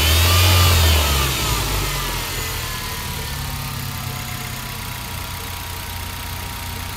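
Hyundai Genesis Coupe 2.0T turbocharged four-cylinder engine blipped briefly and settling back to idle, with a whine that rises and falls with the revs and then holds steady. The whine comes from a bad bearing on an idler pulley.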